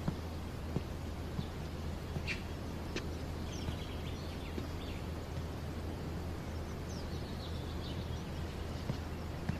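Quiet outdoor ambience: a steady low hum with a few faint bird chirps and short trills, and scattered faint ticks.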